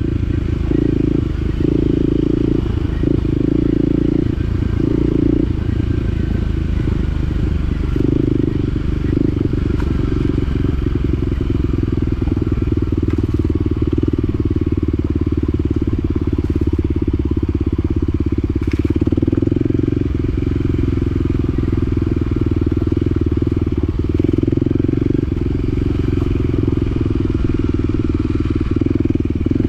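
Side-by-side UTV engine running as it climbs a rough, rocky trail. The engine note pulses on and off for the first few seconds, then runs steadily, with occasional knocks.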